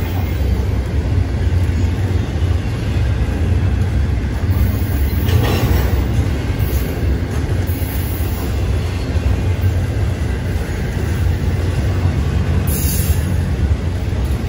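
Double-stack intermodal container train passing close by: steady low rolling noise of the well cars' steel wheels on the rails, with a brief brighter rush about five seconds in.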